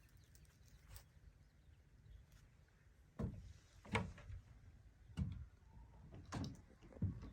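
Slow footsteps, roughly one a second, starting about three seconds in, each a soft low thud with a light crunch, over a low steady rumble.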